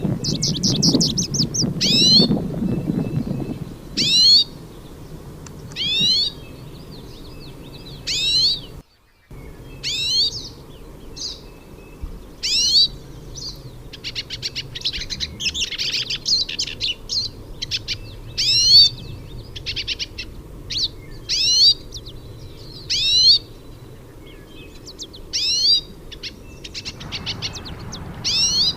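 Hooded siskins singing: loud, quick sweeping notes repeated every second or two, with bursts of fast twittering about halfway through. A low rumble sits under the first few seconds, and the sound drops out briefly about nine seconds in.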